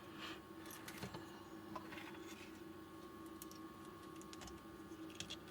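Faint scattered small clicks and soft rustles of parts and wires being handled on a workbench, over a steady low hum.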